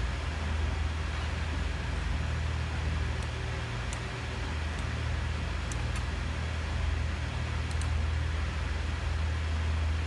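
A steady low hum under an even hiss, with a few faint, short high ticks scattered through the middle.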